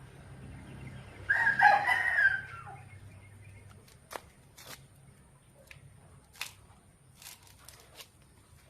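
A rooster crowing once, starting about a second in, followed by several faint sharp clicks or snaps.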